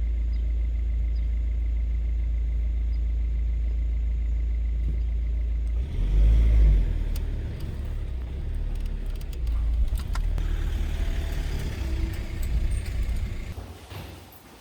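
Steady low rumble of a running car, as heard from inside, for about six seconds. Then louder uneven rumbling with scattered clicks and knocks, dying away near the end.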